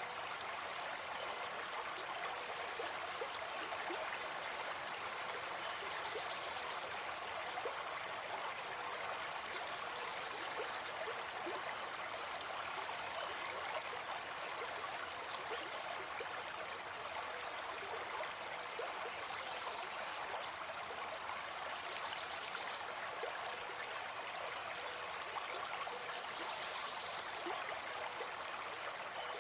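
Gentle forest stream flowing, a steady, even rush of water.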